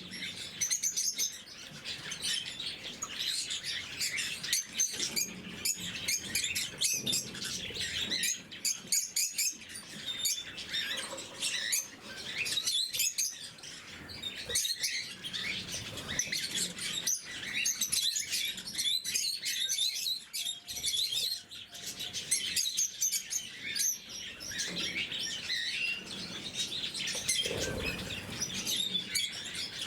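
Pet lovebirds chirping and chattering in a continuous high twitter, mixed with many short clicks and some wing flutters.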